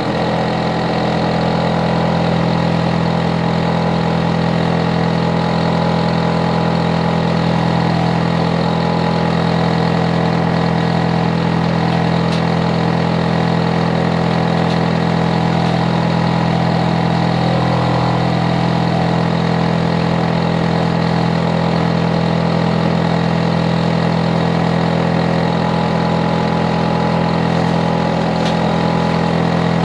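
Hitachi air-conditioner outdoor unit running with a loud, steady hum made of several steady tones. The uploader calls the unit far too noisy.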